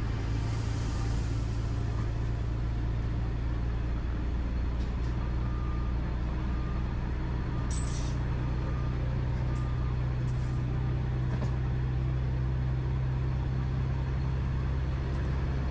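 Train running along the track, heard as a steady low drone, with a few faint clicks about halfway through.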